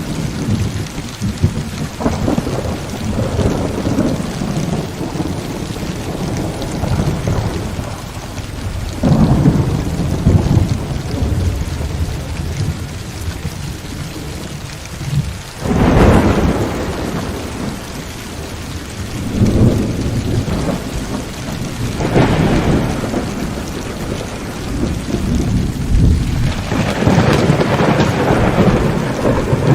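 Heavy rain falling steadily through a thunderstorm, with rolling thunder rumbling several times; the sharpest clap breaks in suddenly about halfway through, and another long roll comes near the end.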